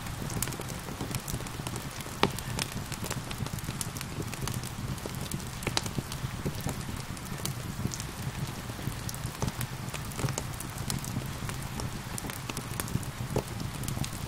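Wood fire crackling with frequent sharp pops, the loudest about two seconds in, over a steady hiss of rain and a low rumble.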